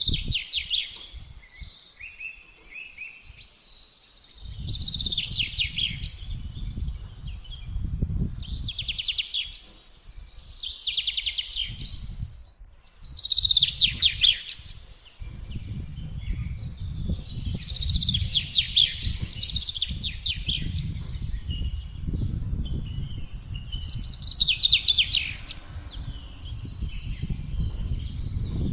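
A songbird singing short, rapid trilled phrases, each about a second long and falling in pitch, repeated every two to three seconds. Underneath, wind gusts rumble low, dropping away briefly a couple of times.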